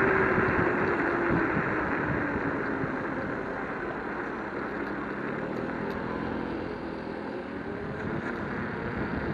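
Riding noise from an electric scooter: wind and road rush with a motor whine that falls in pitch over the first few seconds as the noise eases off, then a lower whine rising again toward the end.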